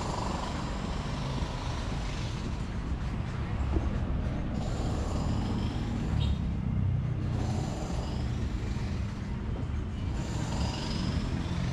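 Steady low rumble of road traffic, with a brief faint high chirp about six seconds in.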